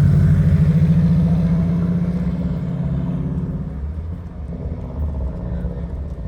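A car engine running, its low drone loud at first and fading away over the first four seconds, leaving a weaker low rumble.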